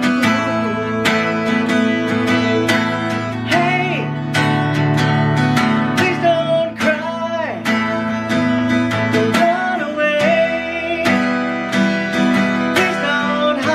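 A song played on strummed acoustic guitar, with a sliding melodic line coming in every few seconds.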